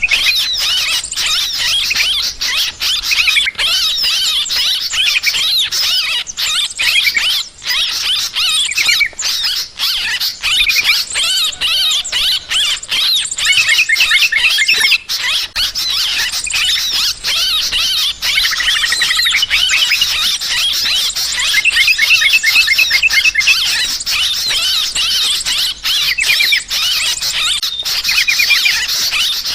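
Dense, continuous chorus of yellow-vented bulbuls chattering noisily, many quick overlapping calls and rapid trills at once, the agitated 'ribut' calling used as a lure to draw in birds.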